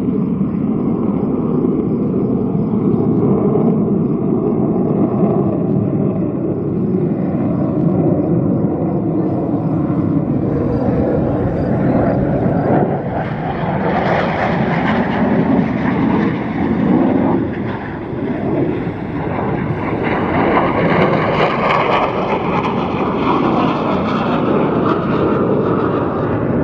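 Boeing F/A-18 Super Hornet fighter jets flying a display pass, a steady loud jet roar whose pitch sweeps upward through the second half as the jets pass.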